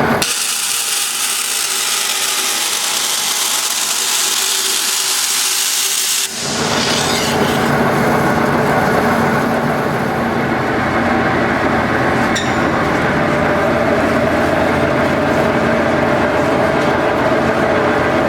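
Tannewitz Di-Saw 36-inch vertical band saw running. A steady high hiss lasts about six seconds, then changes suddenly to a lower, steady running noise.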